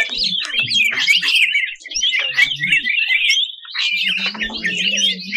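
Green leafbird (cucak ijo) singing a fast, harsh chattering song of dense, twisting chirps, the aggressive 'tembakan kasar' bursts used to fire up other birds. A low steady hum joins underneath from about four seconds in.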